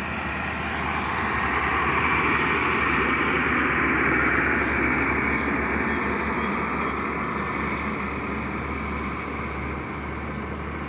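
Truck on the move: steady engine rumble and road noise, growing louder over the first few seconds and easing off through the rest.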